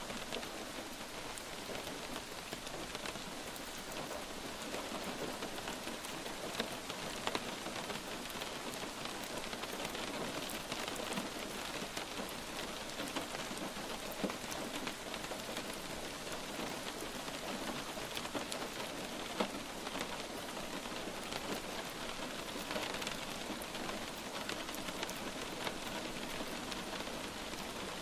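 Steady light rain falling, an even hiss with scattered individual drops ticking.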